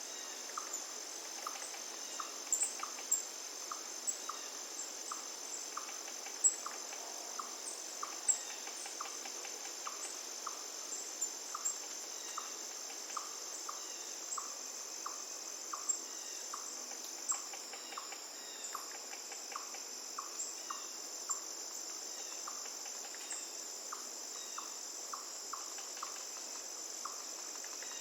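A steady, high-pitched chorus of crickets trilling without a break, with a short lower note repeating a little more than once a second and a sharp high chirp here and there.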